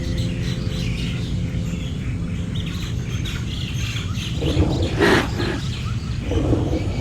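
Birds chirping and calling, with a couple of louder calls near the end, over a steady low background rumble.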